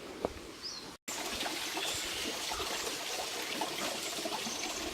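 Small stream of water trickling and pouring steadily, starting about a second in after a brief break in the sound.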